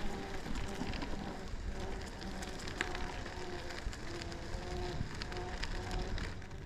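E-bike tyres rolling along a park path: a steady crackling hiss dotted with small clicks. A few short faint tones come and go over it.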